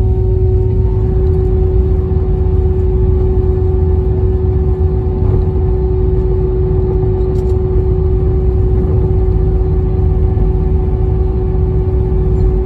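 Cabin noise inside an Airbus A320neo: the engines' steady hum with a deep rumble and a constant tone, unchanging in level.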